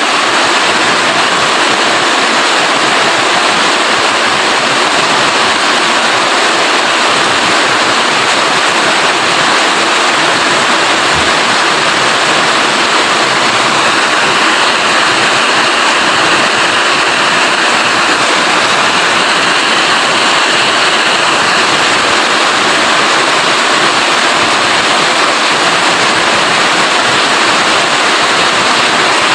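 Steady heavy rainfall, an even loud hiss of rain with no breaks.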